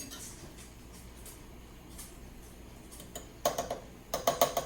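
A utensil knocking against the sauté pan while stirring onions in oil, in two quick groups of clicks, each with a short metallic ring.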